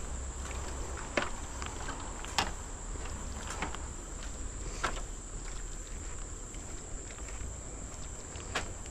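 Forest insects making a steady high-pitched drone, with a few sharp clicks or taps about a second, two and a half seconds, five seconds and near the end in.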